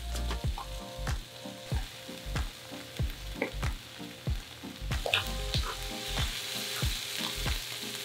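Onions and spices sizzling in a hot nonstick frying pan as they are stirred with a spatula, the hiss growing stronger past the middle.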